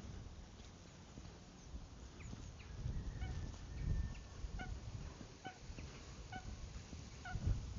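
A bird giving a series of short, pitched calls about once a second, starting about three seconds in, over low thumps.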